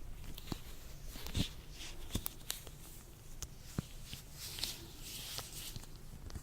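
Latex-gloved hands rubbing and stretching, making soft rubbery rustling with scattered sharp little snaps.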